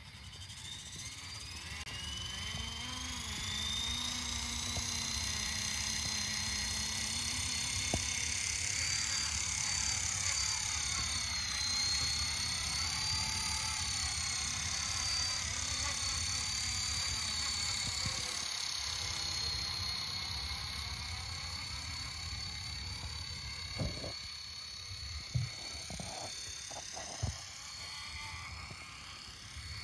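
Hitec SOLO PRO 228 electric RC helicopter's motor and rotor whining, rising in pitch as it spools up over the first few seconds, then running at a high steady whine that drifts slightly up and down as it flies. A few short knocks near the end.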